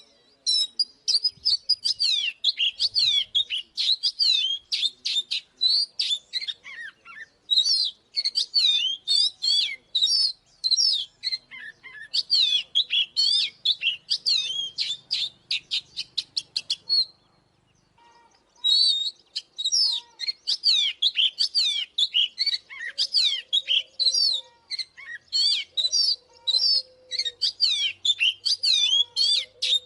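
Oriental magpie-robin singing: a fast, unbroken run of varied whistled notes and trills, with a break of about a second and a half a little past the middle.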